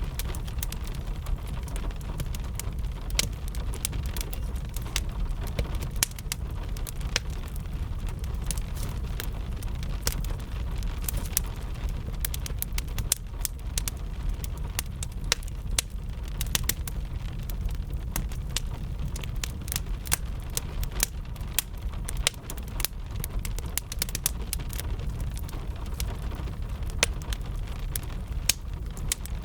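Wood fire crackling, with frequent irregular sharp pops and snaps over a steady low rumble, mixed with a soft, even hiss of rain.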